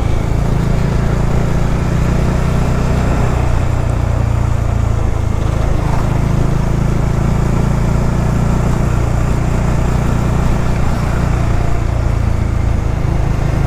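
Motorcycle running at a steady cruise: an even engine drone with road and wind noise, holding the same pitch throughout.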